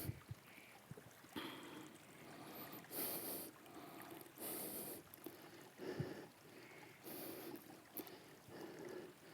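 Faint breathing close to the microphone: soft, noisy breaths in and out, about one every second and a half, some with a sharper hiss.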